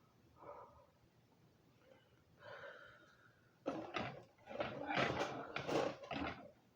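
Close-miked mouth sounds of a person eating: a couple of soft breaths, then from about halfway a run of louder, short, noisy breaths and mouth noises.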